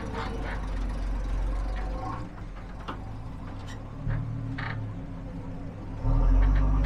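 Car engines running at low revs, with a much louder, deep engine rumble starting about six seconds in, as of a car passing close.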